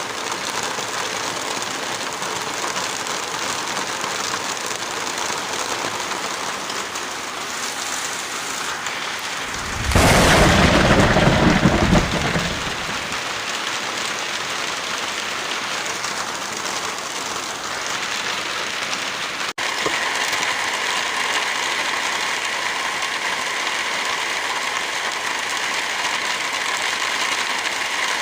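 Steady rain falling, with a loud rumble of thunder about ten seconds in that lasts about two seconds and fades. About two-thirds of the way through the sound drops out for an instant and the rain comes back a little brighter.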